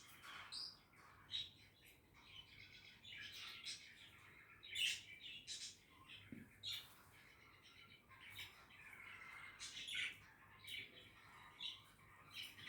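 Budgerigars chattering softly: a run of quick chirps and warbling calls, with a few sharper chirps standing out.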